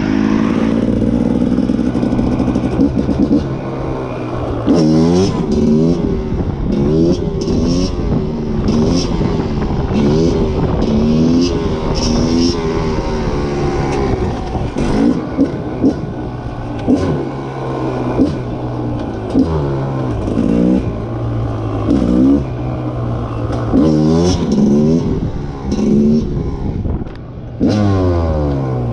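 Rieju MR300 two-stroke enduro motorcycle engine, held at a steady pitch for the first few seconds. From about four seconds in it is revved hard over and over, its pitch rising and dropping every second or two as the bike is ridden.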